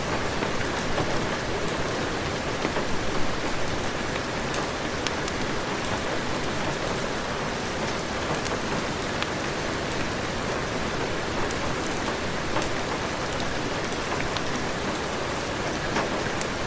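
Steady heavy rain falling with a dense patter of drops and many small high ticks; no thunder is heard.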